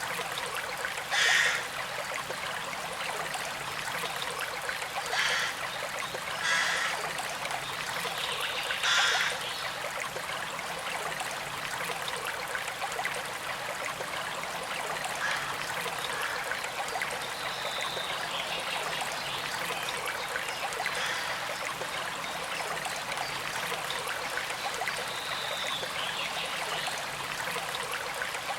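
Small creek flowing steadily, a continuous rush and trickle of water, with four brief louder splashes or gurgles in the first ten seconds.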